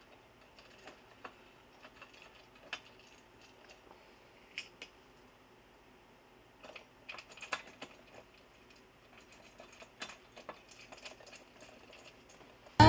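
Scattered light clicks and taps at an irregular pace, with quiet gaps between them, as seat-bracket hardware and hand tools are handled during mounting. Music comes in at the very end.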